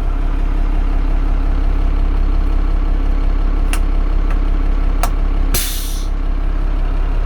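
Leyland DAF T244 truck's diesel engine idling steadily, with a few sharp clicks in the middle and a short hiss of compressed air a little over halfway through, as the diff lock button is tried.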